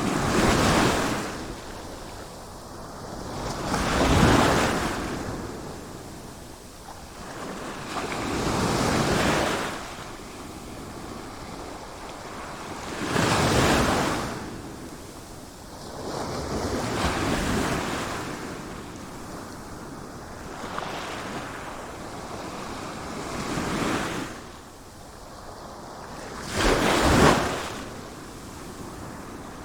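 Sea waves surging and breaking, one swell after another about every four seconds, each rising to a rush and then falling back; the wave near the end is the sharpest.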